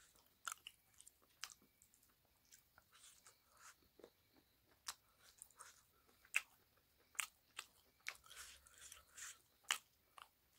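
Close-miked chewing of a mouthful of rice and pork, with wet mouth clicks and scattered sharp crunches, two of them louder at about six and nine and a half seconds in.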